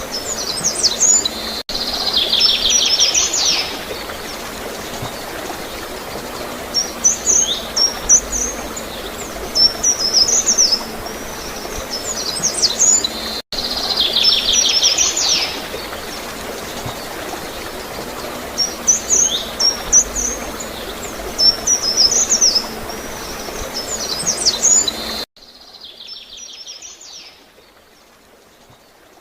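Small birds chirping in quick high clusters, with a buzzy trill twice, over a steady rush of gurgling water. About 25 seconds in, the whole sound drops abruptly to a much quieter level.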